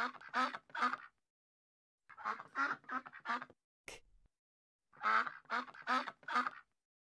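A duck quacking in three runs of five or six quick quacks, with pauses of about a second between the runs.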